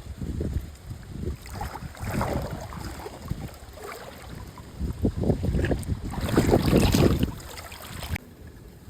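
Wind rumbling on the microphone mixed with water splashing and sloshing, irregular and loudest about six to seven seconds in, then dropping off suddenly near the end.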